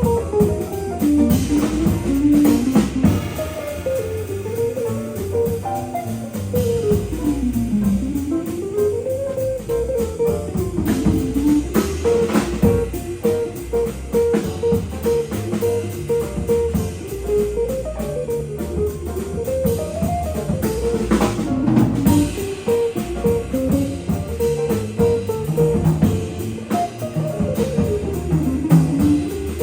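Small jazz band playing an up-tempo tune: electric guitar plays a fast single-note line up and down, with repeated notes in the middle, over walking bass and drum kit.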